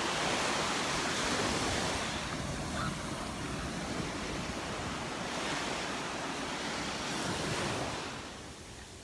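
Surf breaking and washing up the beach, with wind on the microphone; the wash eases off near the end.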